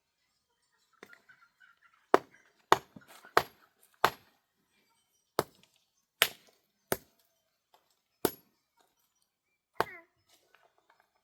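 A series of about nine sharp strikes at irregular intervals, each a sudden knock that dies away quickly.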